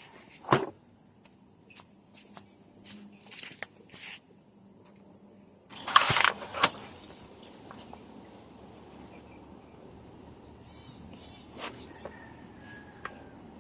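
Steady high drone of field insects, with a few knocks and clicks of handling, a louder rustling burst about six seconds in, and two short high chirps near the end.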